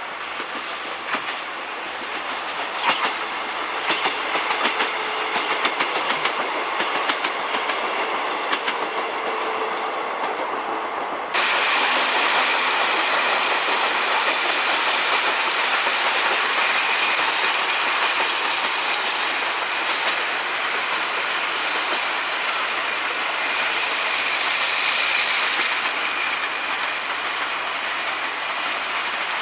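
Train running on the rails with its wheels clicking over the rail joints. About eleven seconds in the sound cuts abruptly to a louder, steadier train running noise.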